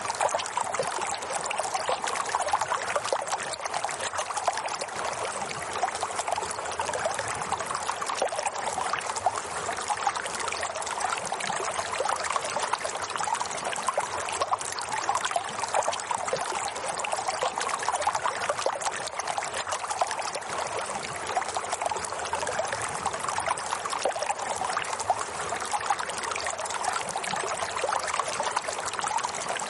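Steady flowing water, an even, unbroken splashing rush with no changes.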